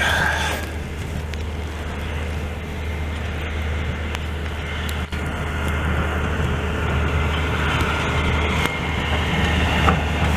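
Heavy diesel snow-clearing vehicles running, a steady low engine hum with road noise that grows slowly louder toward the end as they come closer.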